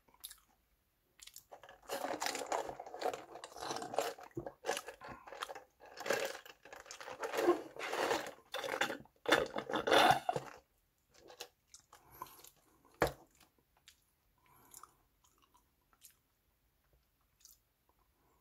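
Close-miked chewing and crunching of a mouthful of food, a dense run of bites from about two seconds in until about ten and a half seconds. A single sharp knock comes near thirteen seconds, then only faint small handling sounds.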